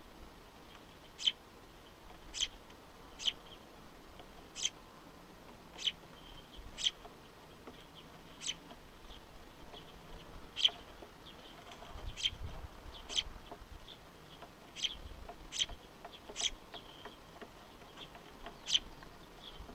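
A small wild bird giving short, sharp, high-pitched calls, repeated roughly once a second.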